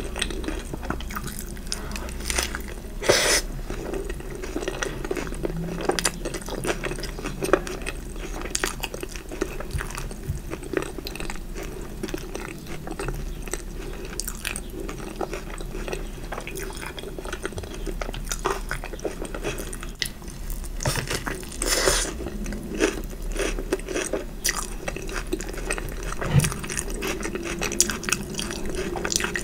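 Close-miked eating of crunchy fried food: steady chewing and biting full of small crunches and wet mouth clicks. Louder crunchy bites come about 3 seconds and 22 seconds in.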